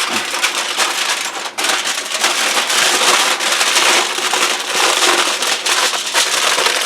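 Aluminum foil crinkling and crackling continuously as it is folded and crimped shut around a potato.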